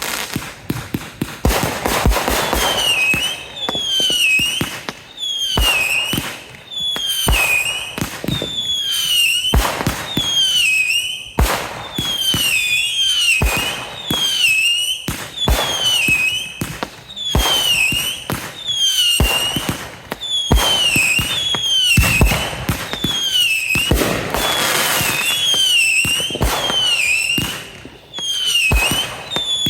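Consumer fireworks firing shot after shot, about one every second or so. Each bang is followed by a short high whistle that dips in pitch, with crackling in between.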